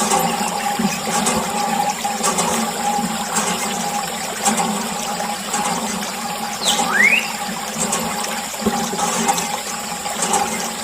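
Steady rush of running water, with a short chirp sliding in pitch near the middle.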